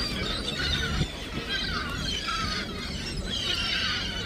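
A flock of gulls calling while crowding for food being thrown to them: many short, high cries overlapping, over a low steady rumble.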